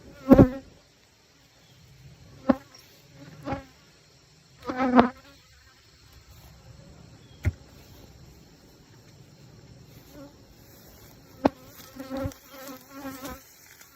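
Honeybees buzzing loudly as they fly close past the microphone in short passes, over a faint hum from the open hive. Two sharp knocks sound partway through.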